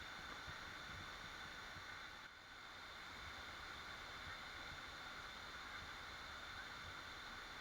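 Waterfall: a steady rush of falling water, dipping slightly for a moment about two seconds in.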